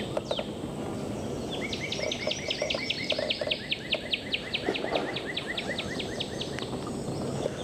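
A bird calling in a long, rapid series of high descending notes, about five a second, over a steady low wash of outdoor noise.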